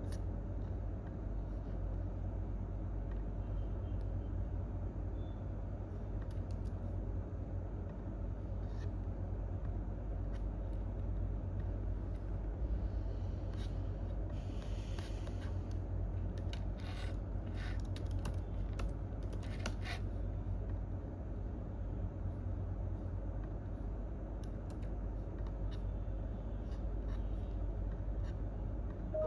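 Steady low rumble of an office room, with sparse faint keyboard and mouse clicks that come most often in the middle of the stretch. There is a brief soft rustle about halfway through.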